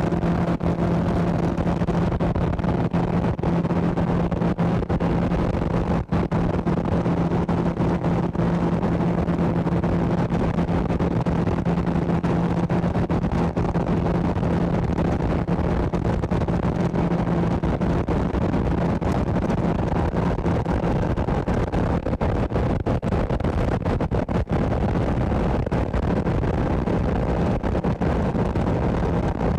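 Motorboat under way: the boat's motor runs at a steady speed under loud rushing wind and water noise. The motor's hum grows fainter a little past halfway.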